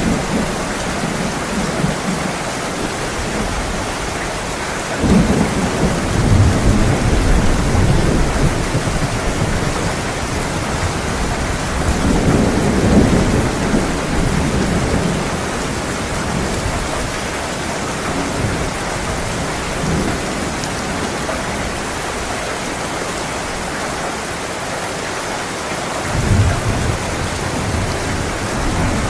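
Heavy rain pouring steadily, with thunder rumbling three times: about five seconds in, in the middle, and again near the end.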